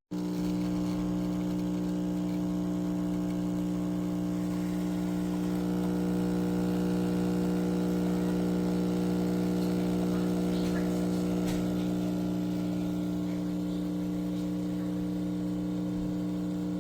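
Geek Chef 20-bar espresso machine's pump running steadily while brewing a shot: a loud, even mechanical hum that starts abruptly.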